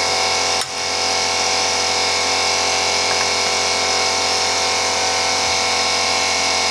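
A steady mechanical hum and whine, like a small electric motor running. It dips briefly about half a second in and is otherwise unchanging.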